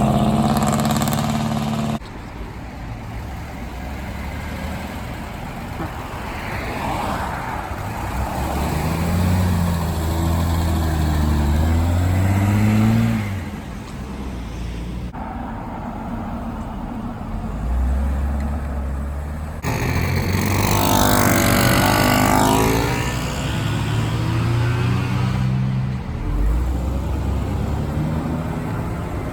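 Cars driving away one after another, each engine accelerating past with its pitch rising and falling. The sound cuts abruptly several times between passes. The loudest pass, about 20 seconds in, has a dense, higher-pitched engine note.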